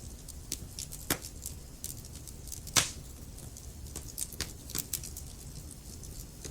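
Wood fire crackling: burning logs giving off irregular sharp pops and snaps over a low steady rumble, with one louder pop a little under three seconds in.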